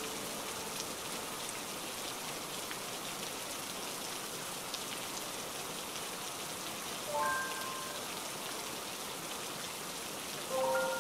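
Steady rain falling onto a flat, water-covered surface close by, with drops splashing and ticking. Two brief clusters of higher tones sound over it, about seven seconds in and again near the end.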